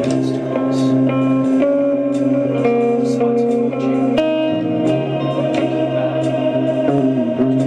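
Guitar-led band music: sustained guitar notes that change every second or so over a steady bass line.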